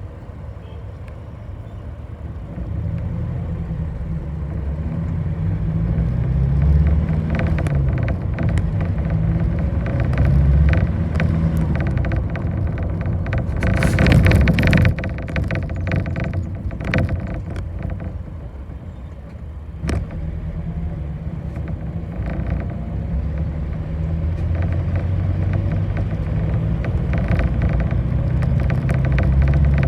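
Bus engine and road noise heard from inside a moving bus. The low engine drone grows louder and shifts its note in steps as the bus picks up speed. A louder rushing swell comes about halfway through, and a single sharp click a few seconds later.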